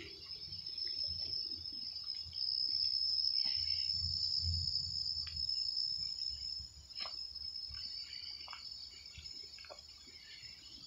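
A steady, high-pitched insect trill, as of late-summer crickets, running without a break. Scattered light clicks and crunches of footsteps on the woodland path sit beneath it.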